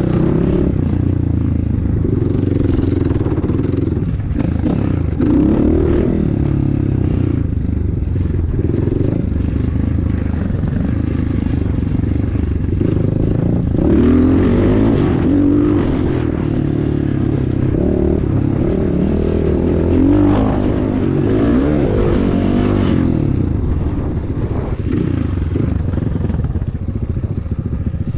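Enduro motorcycle engine (KEWS K16 PRO) running under way, the revs rising and falling a few times as the throttle is opened and eased off.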